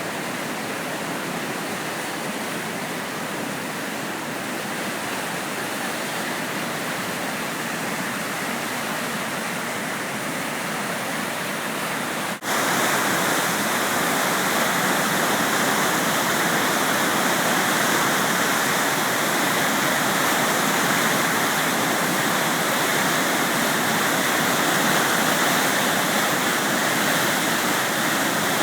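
The Deerfield River in flood from hurricane rains, rushing steadily. About twelve seconds in, the sound breaks off for a moment and comes back louder and brighter.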